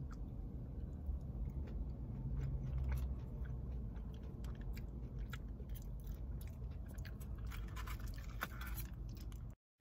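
Close-miked chewing and biting of chicken nuggets, with small wet mouth clicks. Near the end a paper ketchup packet crinkles as it is torn open. The sound drops out for a moment at the very end.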